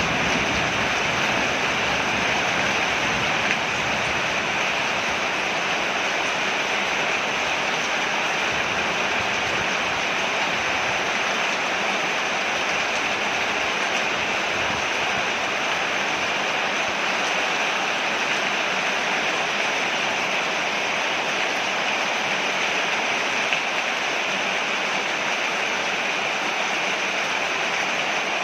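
Rain falling steadily on a porch, an even unbroken hiss, with a faint low rumble that fades out over the first few seconds.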